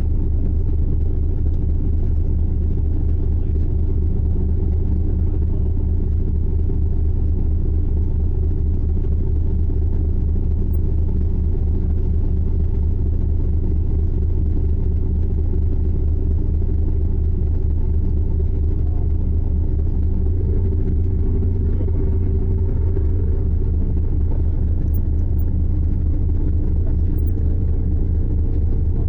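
Icebreaker sightseeing ship's engine running, a steady low rumble with a fast even throb.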